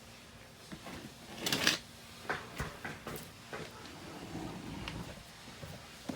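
A series of knocks and clatters, like things being handled or moved, with one louder short scraping rush about one and a half seconds in.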